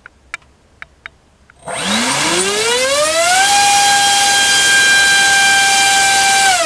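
Gartt HF500 1600 kV brushless motor turning a 7x6 APC propeller on a 5-cell battery. After a few light clicks it spins up with a rising whine about one and a half seconds in, holds a steady high whine at full throttle for about three seconds, drawing about 1400 watts, then starts to wind down at the very end.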